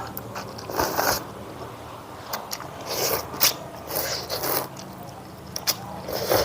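Close-up eating sounds: food being bitten and chewed with irregular crunches and crackles.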